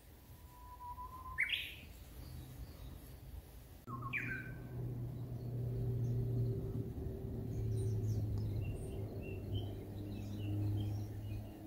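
Birds calling: a loud whistled call that sweeps sharply upward about a second and a half in, a second shrill call about four seconds in, then scattered faint chirps. A low steady hum comes in at the second call.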